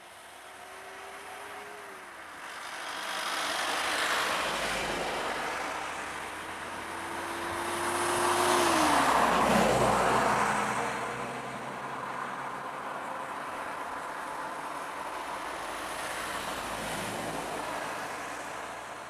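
Road vehicles passing close by on a road: a steady whine that drops in pitch as the first goes past about two seconds in, then a louder pass about nine seconds in whose tone also drops. A quieter steady engine hum follows.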